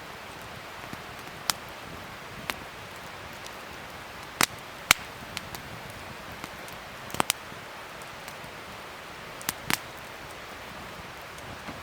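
Wood fire crackling over a steady hiss, with about eight sharp pops at irregular intervals, the loudest a little before halfway.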